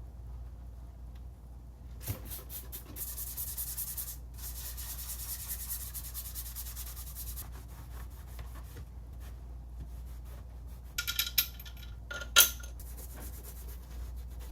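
Rubbing and scrubbing on a ceiling fan part being cleaned, in a long stretch starting about two seconds in. Later come a quick cluster of light clicks and one sharp click, the loudest sound.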